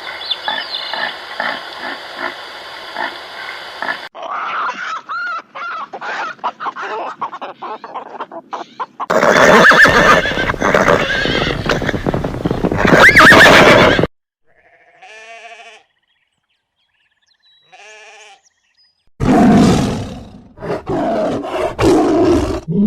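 A run of different animals' calls, one clip after another with abrupt changes and short silent gaps between them; the loudest stretch comes just before the middle.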